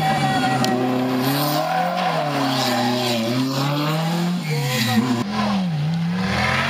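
Historic rally car engine revving hard, its pitch climbing and dropping again and again as the driver accelerates and lifts through the bends.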